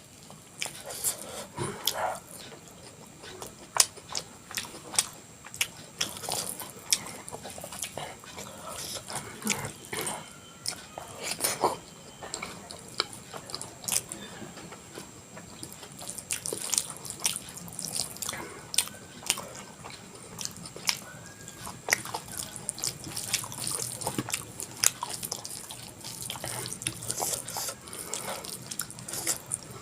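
Close-miked eating sounds: wet chewing and lip-smacking, with many short sharp mouth clicks, as a person eats a soft meal of khichdi, omelette and mashed potato.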